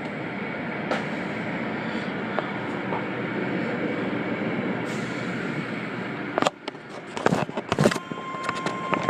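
Steady rushing noise of car wash equipment. It drops away suddenly about six and a half seconds in and gives way to scattered knocks and clicks, with a thin steady tone near the end.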